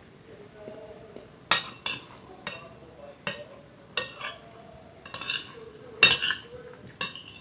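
Metal cutlery clinking and scraping against a plate while eating, in about eight sharp taps, some in quick pairs.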